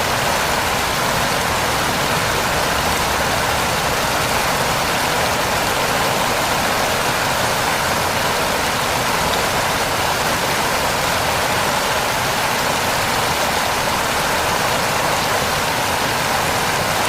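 Steady heavy rain: a constant, even hiss of falling rain with no breaks.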